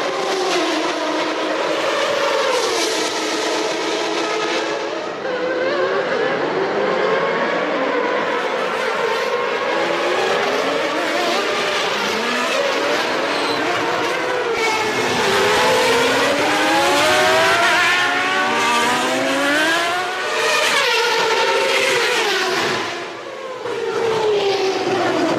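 Several 1993 Formula One cars racing past: their engines rev up and drop back through gear changes, with several engine notes rising and falling over one another. The level dips briefly near the end.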